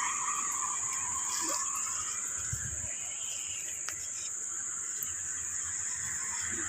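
Insects droning steadily at a high pitch, with one faint click about four seconds in.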